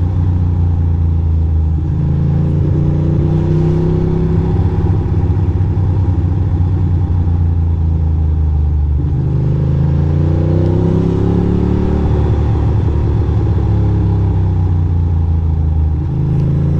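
A 2006 Ducati Monster 620's air-cooled V-twin engine running on the move in city traffic, its pitch rising and falling with the throttle: it pulls up in revs about two seconds in, again around nine seconds, and once more near the end.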